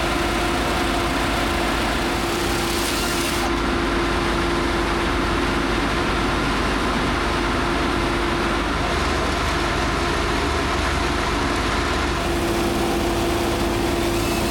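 An engine running steadily at an even pitch, with a hiss that is stronger for the first few seconds.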